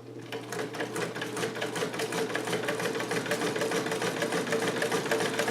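Vintage Sovereign electric sewing machine, driven by its 1-amp motor, running steadily and stitching. The motor hum sits under a rapid, even clatter of needle strokes.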